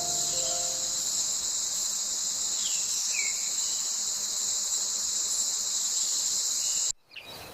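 Insect chorus: a steady, high, unbroken buzz that cuts off suddenly near the end. Two short falling chirps come about three seconds in.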